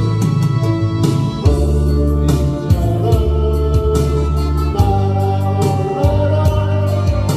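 Gospel song with organ and a heavy bass accompaniment under a steady beat, a singer holding a long note in the second half.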